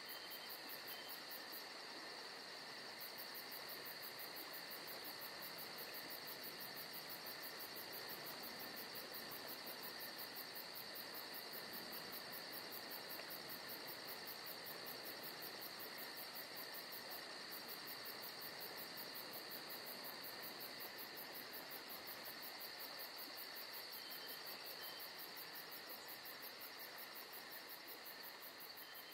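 Faint night-time insect trilling, cricket-like: a rapid, very high-pitched pulsing trill that keeps going except for short pauses about two seconds in and again about seventeen seconds in, over a steady faint hiss and high whine.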